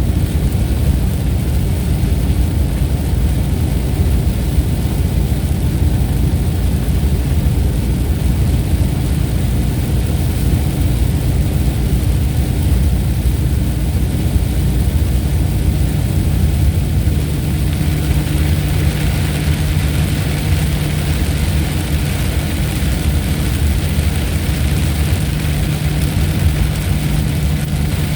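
Thunderstorm ambience: a steady low rumble under an even hiss, with no sharp thunderclap. The hiss grows brighter after about 18 seconds.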